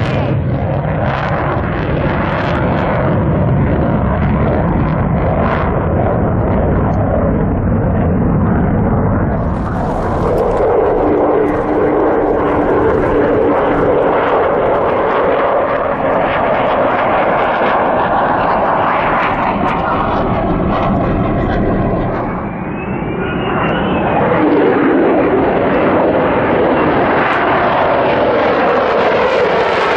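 F-35 Lightning II fighter jets, their single jet engines sounding loud and continuous as they fly past. The noise eases briefly about three-quarters of the way through, then swells again, growing brighter toward the end.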